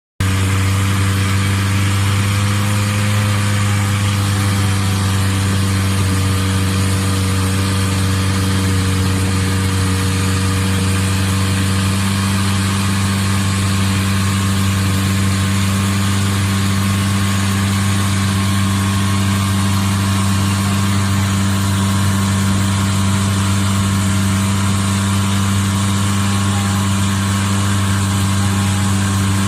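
Boat engine running steadily at an unchanging speed, a loud, even hum.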